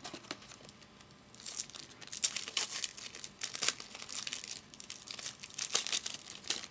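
Foil wrapper of a trading card pack crinkling and tearing as it is opened, in a run of rustling bursts from about a second and a half in.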